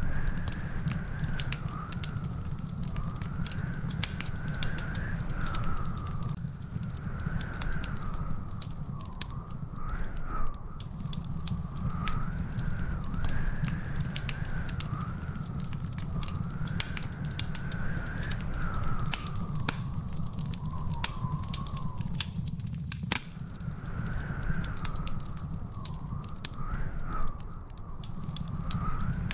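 Wood fire crackling and popping in a fireplace, with many sharp snaps over a steady low rumble. A thin whistling tone wavers slowly up and down throughout.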